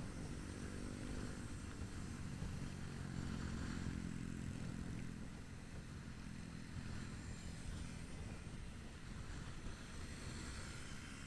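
Motorcycle engine running on the move, stronger for the first few seconds and easing off about halfway, over a steady low rumble of road and wind noise.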